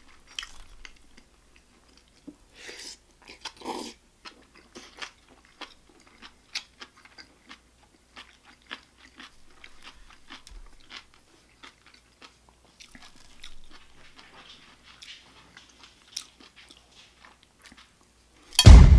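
A man chewing and biting food, rolled Korean omelette among it, with many short mouth clicks and smacks. Shortly before the end, a sudden loud low hit cuts in and fades slowly.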